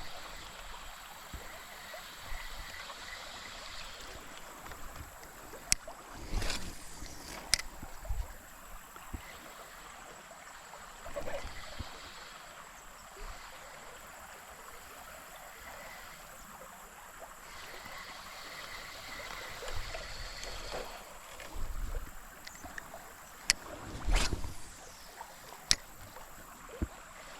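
Steady hiss of gently running creek water, with a few sharp clicks and several brief knocks scattered through.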